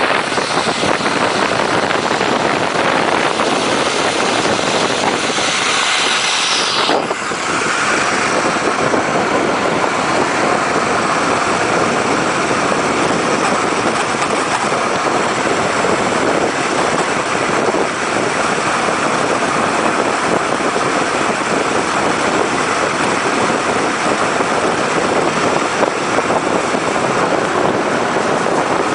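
Ice boat moving at speed over the ice: a loud, steady rushing noise, with a brief change in its hiss about seven seconds in.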